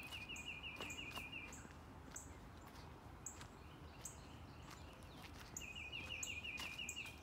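A bird singing a rapid trill, about a second and a half long, twice: at the start and again near the end. Short high chirps repeat throughout, over the faint crunch of footsteps on dry leaf litter.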